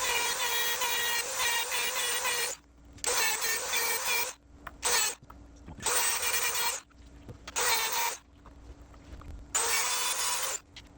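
A small power tool's motor whining at a steady pitch, stopping about two and a half seconds in. Then come five short bursts of rushing noise, each about a second long or less, with a faint low hum between them.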